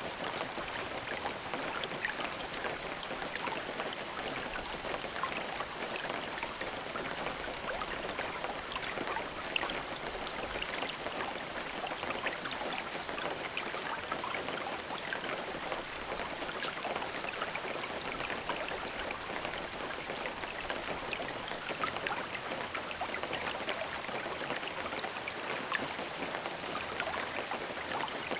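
Steady rain falling, an even hiss thick with countless small drop impacts ticking throughout, with no thunder.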